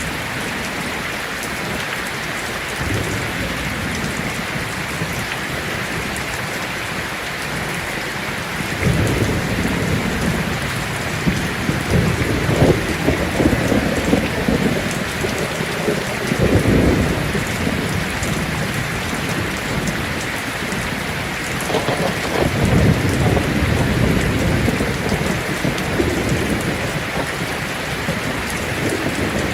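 Heavy rain drumming steadily on a tin roof, with rolling thunder rumbling twice, first about nine seconds in for several seconds and again about twenty-one seconds in.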